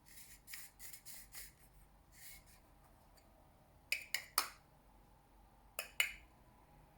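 A scattering of light, sharp clicks and ticks: a quick run at the start, three close together about four seconds in, and two more near the end.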